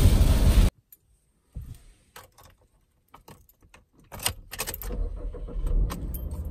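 Cabin road noise that cuts off under a second in, then clicks and a jangle of keys in the car. About four seconds in, the 2019 Subaru Outback's boxer engine starts, its revs flaring briefly before settling into a steady idle.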